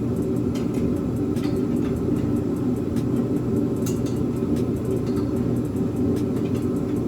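A steady low drone of background noise throughout, with a few faint clicks and taps of hand tools on metal.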